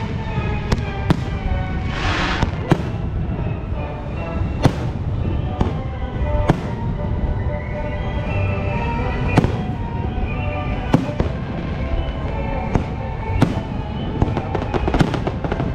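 Fireworks display: aerial shells bursting in a long irregular series of sharp bangs, some close together.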